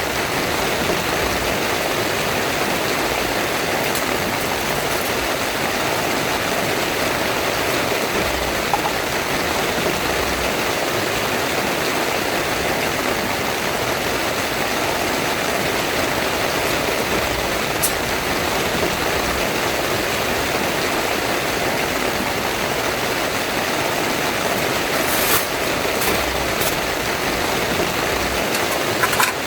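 Heavy rain falling steadily on a tent, a dense even hiss, with a few light taps near the end.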